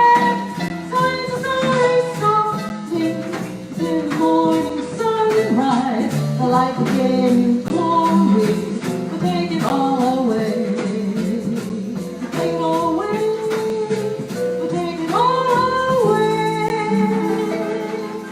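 Live Brazilian jazz: a voice sings a melody over plucked strings, then the music settles on a long held chord that fades near the end.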